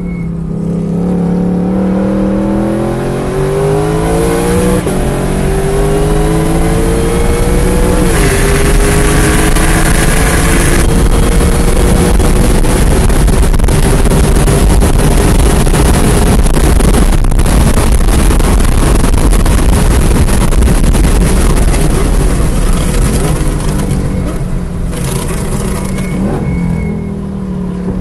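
Shelby GT500's supercharged V8 at full throttle, climbing in pitch through two upshifts in the first eight seconds, then held high down a long straight. It drops away near the end as the car brakes and downshifts for the corner.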